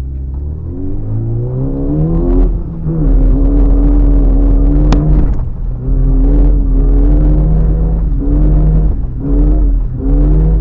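Suzuki Samurai's engine accelerating hard while towing a sled, heard from inside the cabin: the revs climb, fall back sharply several times as the throttle is lifted or a gear is changed, then climb again.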